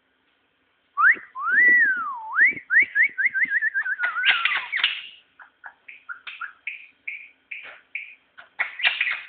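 A caged songbird singing clear whistled notes: slow gliding phrases rising and falling in pitch, then a quick run of short rising notes, then scattered short chirps.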